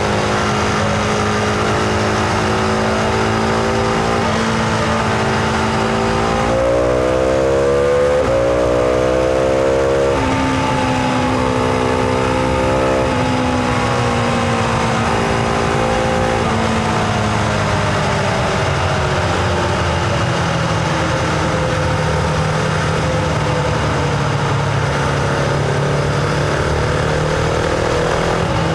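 Husqvarna Vitpilen 701's single-cylinder engine heard onboard while riding, over steady wind noise. Its pitch climbs sharply about a quarter of the way in under acceleration, drops in steps as it shifts up, then sinks slowly as the throttle is rolled off, and rises again near the end.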